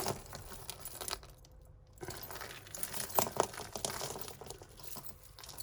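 Bead necklaces of costume jewellery being handled, their beads giving scattered light clicks and rattles with some rustling, going quiet for a moment between about one and two seconds in.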